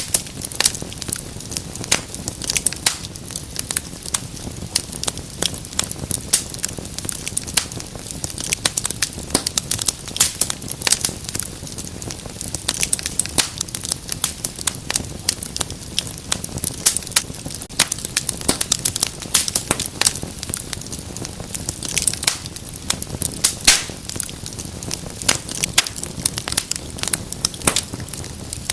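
Wood fire in a fireplace crackling and popping steadily, with many sharp snaps over a low rumble of the flames.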